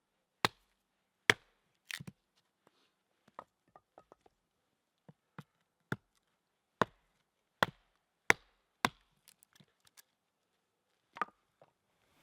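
Wood being chopped or split with a blade: sharp knocks at uneven intervals, about nine loud strikes with fainter taps between, while kindling is prepared for a campfire.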